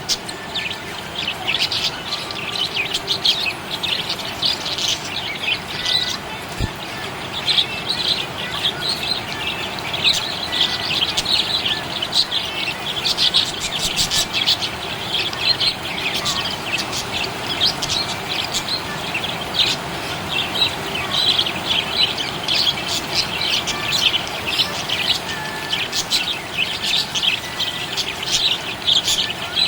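Budgerigars chirping and chattering without pause, many quick overlapping chirps.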